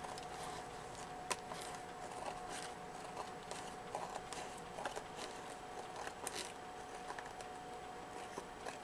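Faint handling noises of paper being worked on a craft table: scattered small taps and ticks over a steady faint electrical hum.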